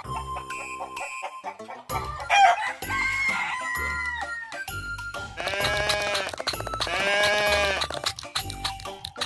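Rooster crowing twice in the second half, two long crows, over background music with a steady beat.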